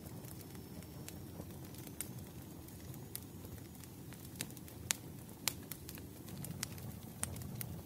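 Wood fire crackling in a fireplace: irregular sharp pops over a low, steady rumble, the loudest two about five seconds in.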